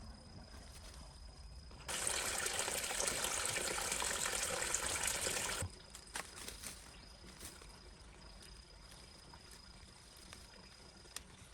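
Water pouring for about four seconds, starting about two seconds in and stopping abruptly.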